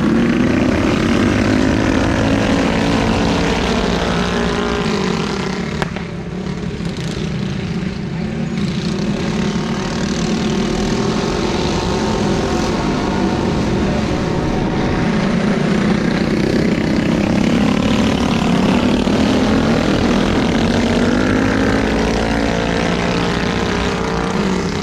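Several small minibike engines racing, their buzzing pitch rising and falling as riders rev through the throttle and pass by. The sound eases off about a quarter of the way in, then builds again.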